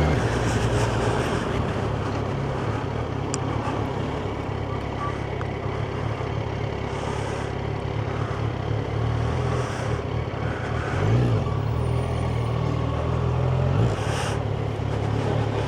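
Yamaha FZ1's inline-four engine running at low revs, a steady low note that briefly rises in pitch twice in the second half.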